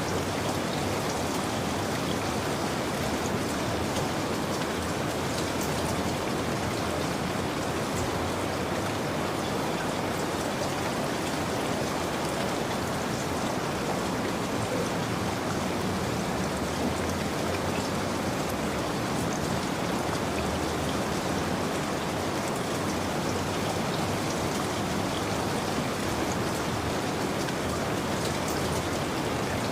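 Steady rain falling, an even patter with scattered individual drops, as a continuous sleep-ambience track.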